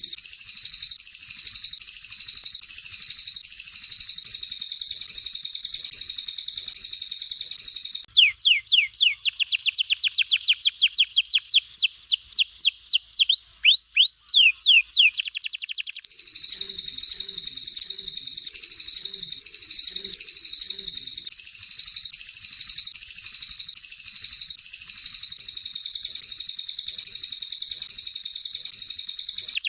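Recorded songbird song mixing a domestic canary and a cililin, played as masteran training song. A dense, high, continuous trill gives way about eight seconds in to a fast run of sharp downward-sweeping whistles, several a second. The trill returns about halfway through.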